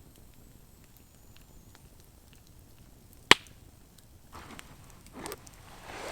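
A single sharp crack about three seconds in, followed by softer rustling and scraping sounds.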